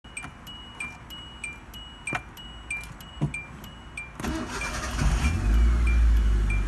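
Car's dashboard warning chime pinging about three times a second. About four seconds in, the engine cranks and starts, settling into a low rumble while the chime keeps going.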